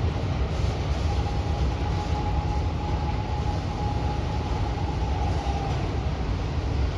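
Empty autorack freight cars rolling past: a steady low rumble of wheels on rail. A thin, steady whine joins about a second in and fades near the end.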